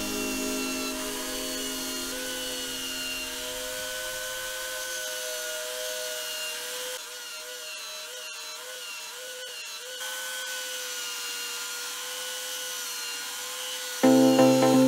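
Belt sander running with a steady, slightly wavering whine while a wooden bow handle is pressed against the belt and shaped. Background music fades out over the first few seconds, and louder music starts abruptly near the end.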